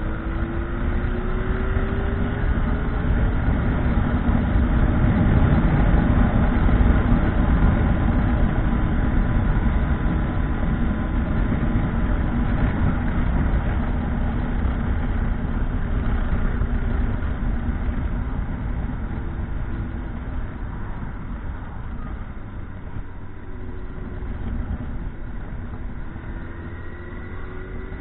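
Motorcycle engine running on the move, a steady drone under rushing noise, loudest about a quarter of the way in and easing off after. Its pitch climbs as it accelerates at the start and again near the end.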